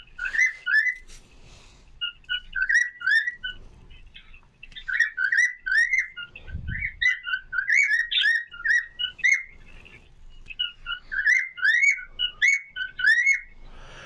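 Caged birds chirping: runs of short, rising chirps repeated several times a second, with brief pauses about four and ten seconds in.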